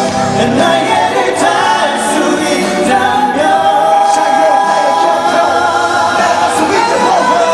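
Live pop music with a singer holding long sung notes over the band's backing.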